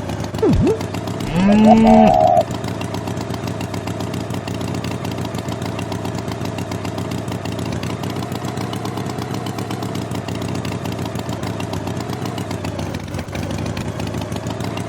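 Tractor engine running steadily, with a brief loud pitched call about a second and a half in.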